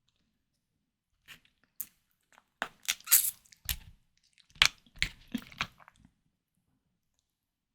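Close-miked eating sounds of white tiger prawns being bitten and chewed: a run of short, sharp crunches and wet clicks between about one and six seconds in, loudest around three and five seconds.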